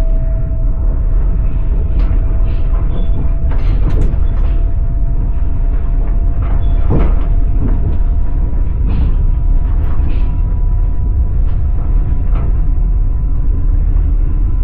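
Passenger train running, heard inside the carriage: a steady heavy rumble with the irregular clatter of the wheels knocking over the rail joints, and a faint thin steady whine underneath.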